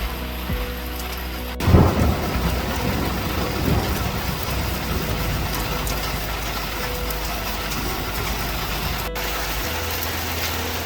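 A thunder rumble starts suddenly about two seconds in and fades over a couple of seconds, over steady rain.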